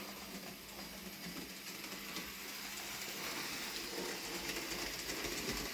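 Bachmann Rheneas model locomotive running along the track with its wagons: the steady whirr of its small electric motor and gears, with fine rapid clicking and rattling from the wheels on the rails. It grows a little louder about halfway through.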